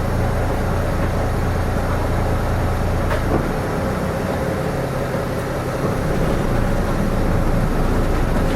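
Hino Rainbow RM (KK-RM252GSN) diesel bus running, heard from inside the passenger cabin: a steady low engine drone with a faint whine, and the engine note drops about three seconds in as the driver eases off.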